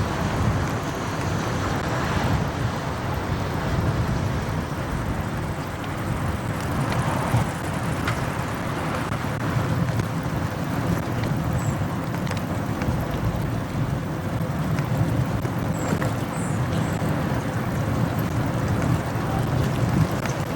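Motorcycle riding through city traffic: a steady mix of engine, road and traffic noise, with no sharp event standing out.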